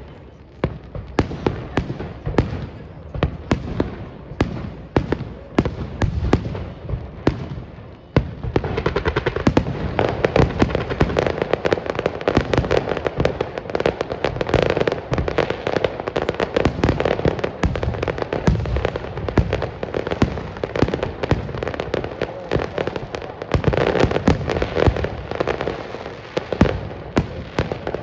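Fireworks display: a rapid series of bangs and crackles, building about a third of the way in into a dense, louder barrage of continuous crackling.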